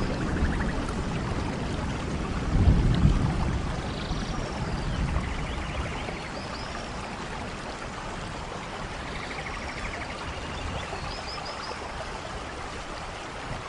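Steady rainfall with a low thunder rumble that swells about three seconds in and dies away, leaving the rain quieter for the rest.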